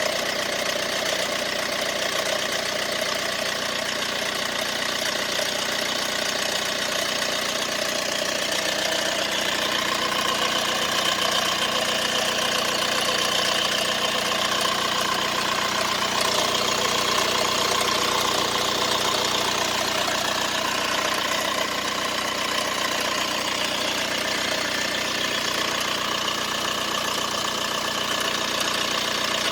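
Mercedes-Benz B180 (W245) engine idling steadily with a continuous rattle from the engine, a noise whose cause the owner does not know.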